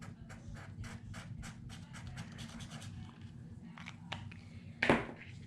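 Rapid back-and-forth scratching strokes on paper, about four or five a second, as when colouring in with a pen; they die away about three seconds in. Near the end, one loud knock.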